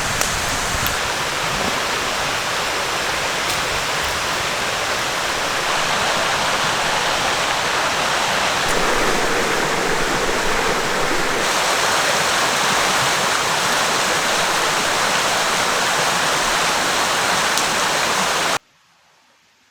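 Valley stream water flowing steadily over rocks, a dense even rush that cuts off suddenly near the end.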